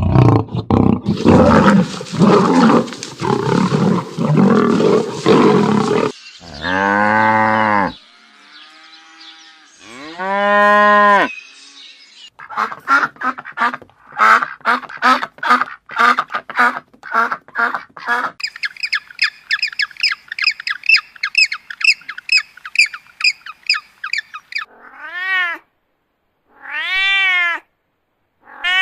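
A string of different animal calls, one after another. It opens with a long rough roar-like call lasting about six seconds, then two short pitched calls, a run of rapid repeated calls, and a fast high chirping. Near the end come short arched calls like cat meows.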